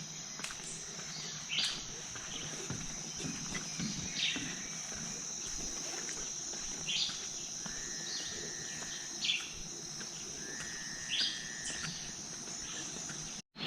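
Rainforest insects keeping up a continuous high-pitched buzzing trill, with short chirping calls every second or two and two held whistled notes of about a second each, near the middle and later on. The sound cuts out abruptly for a moment just before the end.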